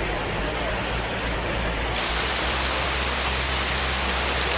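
Steady rushing noise of water, with an abrupt change in tone about two seconds in where one clip cuts to the next.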